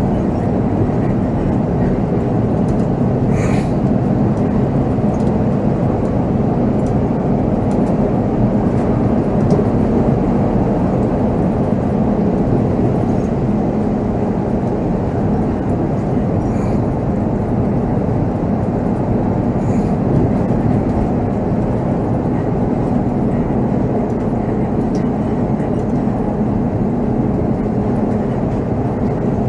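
Volvo B7R coach's straight-six diesel engine running steadily under way, heard from the driver's seat together with road and cabin noise, with a few faint rattling ticks.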